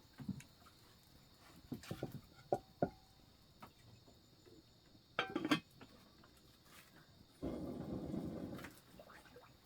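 Scattered light knocks and clicks, then a rough rustling or scraping rush lasting about a second, over a faint steady high insect-like hum.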